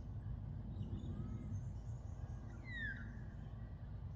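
A bird gives one clear whistled call that slides downward in pitch, about two and a half seconds in, with a few fainter calls around it. A steady low background rumble runs underneath.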